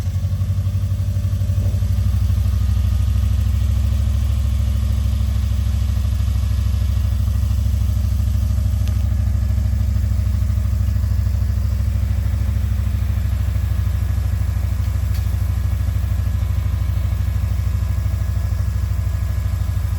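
Subaru Legacy's flat-four boxer engine running at a steady idle, an even low pulsing hum.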